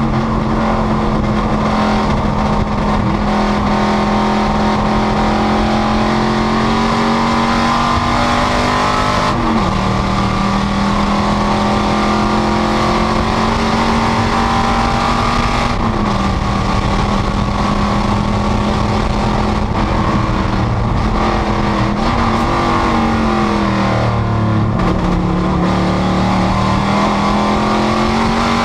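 Panoz GTS race car's engine running hard at racing speed, holding a steady high note, with its pitch dropping and climbing back three times as the driver shifts or lifts for corners.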